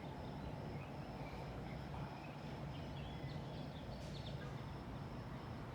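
Quiet outdoor ambience: a low steady rumble with a few faint, scattered bird chirps.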